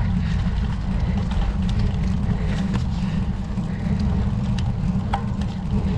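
Steady low rumble of wind and road noise on a bicycle-mounted camera's microphone while riding, with scattered light ticks throughout.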